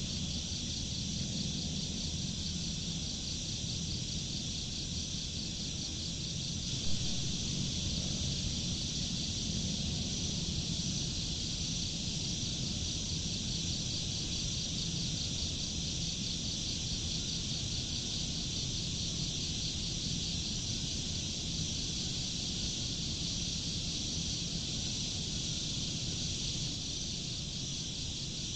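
Steady night-insect chorus of crickets, a continuous high trilling, over a low steady hum, with one brief louder sound about seven seconds in.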